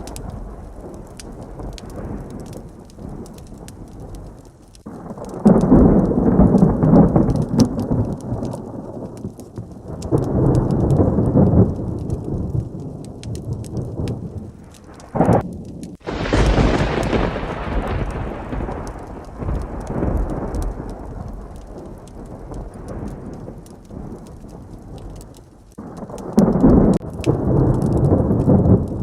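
Heavy rain with repeated rolls of thunder: deep rumbles swell and fade several times, and about halfway through a close thunderclap cracks sharply and rolls off over a few seconds.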